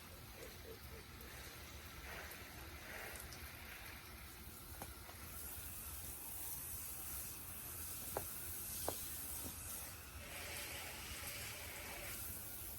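Garden hose spraying water onto plants, a steady hiss that grows brighter in the second half, with two short clicks a little under a second apart.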